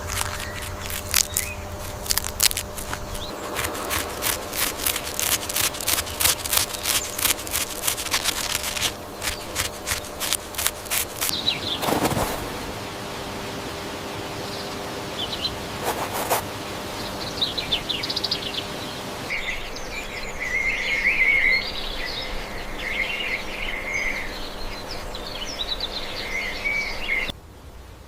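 Rapid clicking and rustling for the first third, with a couple of louder knocks in the middle, then a run of short high chirps over the last few seconds.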